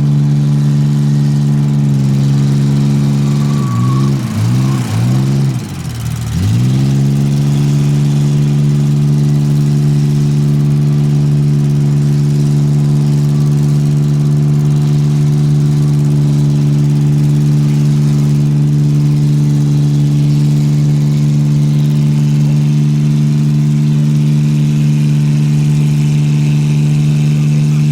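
Ford Ranger's V6 engine running hard at steady high revs. Its pitch dips and recovers several times in quick succession a few seconds in, then holds steady.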